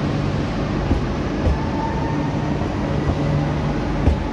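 Rodalies electric commuter train running past the platform: a steady rolling rumble with a faint motor whine and a few short knocks from the wheels.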